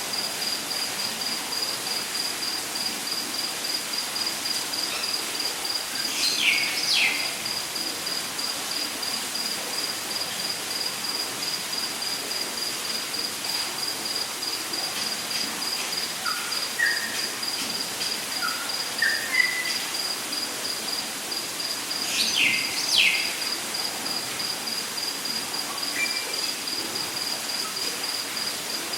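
Rainforest ambience: an insect trilling steadily at one high pitch over a steady rush of falling water. A bird gives paired downward-sweeping calls twice, about 16 seconds apart, and short whistled notes step upward in between.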